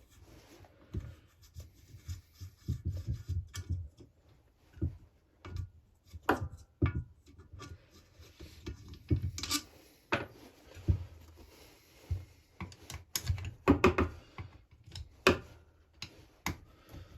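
Hand tools and a chainsaw's crankcase being handled while its case bolts are undone: scattered sharp metal clicks and knocks with light rubbing and scraping between them.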